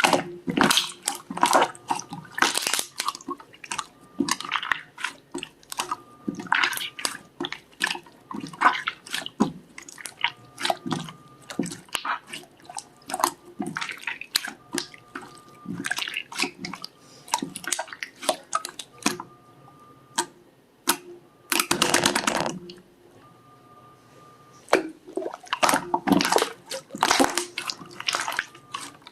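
Slime being squeezed, pressed and stretched by hand, giving irregular wet clicks, squishes and small pops. About two-thirds of the way through there is a louder crackling burst lasting about a second.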